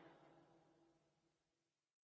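Near silence: the very end of a fading music track dies away.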